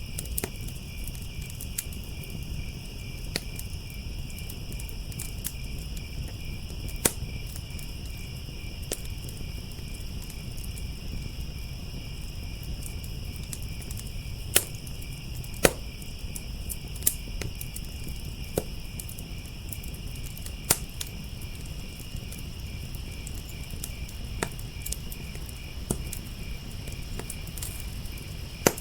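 Crickets chirping steadily, with a wood fire crackling and popping in sharp irregular snaps, a few of them loud, over a low rumble of burning.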